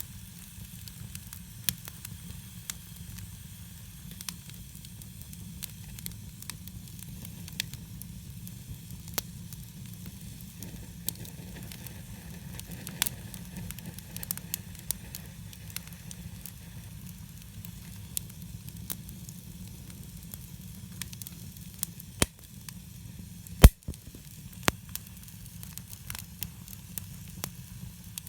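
Campfire burning, the wood crackling with scattered sharp pops over a steady low rumble; one pop a few seconds before the end is much louder than the rest.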